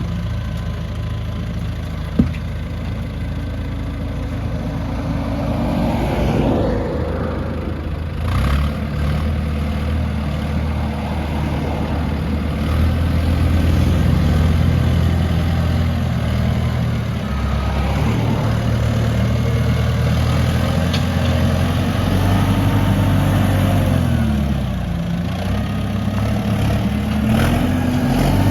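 Heavy diesel earthmoving machinery running, the engine revs rising and falling several times as it works. A single sharp knock about two seconds in.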